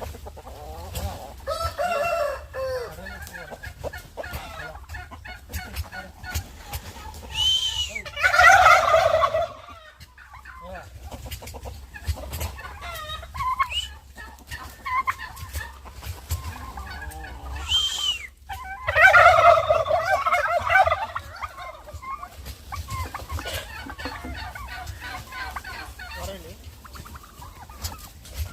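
Turkey gobbling twice, about ten seconds apart. Each gobble is a loud call of a second or two, opening with a short high note. Softer poultry calls and clucks come in between.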